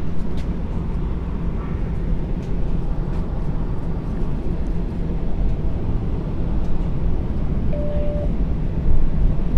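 Inside a moving streetcar: a steady low rumble of the car running along its tracks, with one short beep about eight seconds in.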